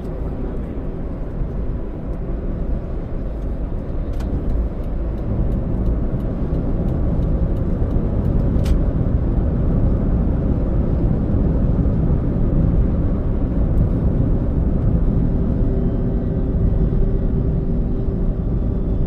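Toyota Allion on the move: steady low engine and road rumble, growing louder about five seconds in.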